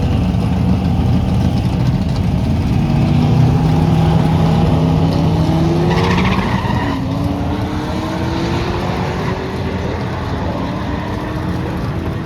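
Drag racing cars accelerating down the strip, their engine pitch climbing, dropping at a gear change about seven seconds in, then climbing again.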